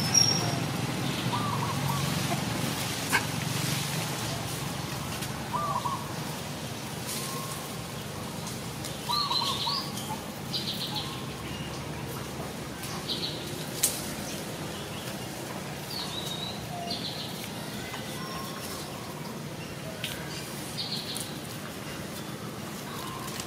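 Birds chirping now and then, short calls every second or two, with a couple of sharp clicks over a faint steady background hiss.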